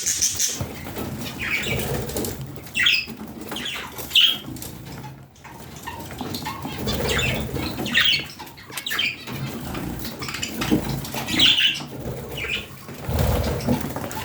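Pet budgerigars chirping in short, repeated calls, with wings fluttering.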